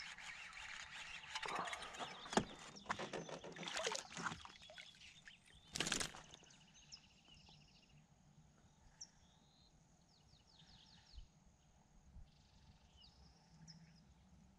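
Small birds chirping and trilling in the second half. Before that there are several seconds of rustling and clicking handling noise, with a short loud rustle about six seconds in.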